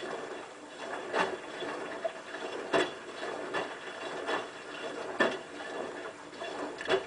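Hotpoint WT960 washing machine tumbling its drum, with a swish of water and cloth about every second and a half over a steady hiss.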